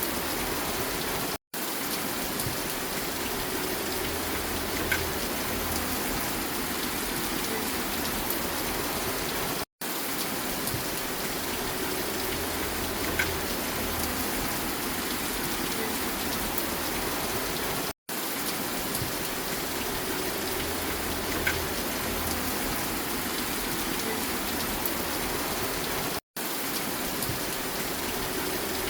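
Steady rain falling, with occasional single drops ticking. The sound cuts out completely for a split second about every eight seconds, four times in all.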